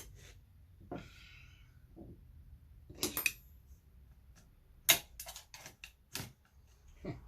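Scattered sharp clicks and clacks of small hard plastic and metal computer parts being handled on a workbench while an old eMac's logic board is stripped. There is a short scraping rustle about a second in and a cluster of clicks from about five seconds in, the loudest among them.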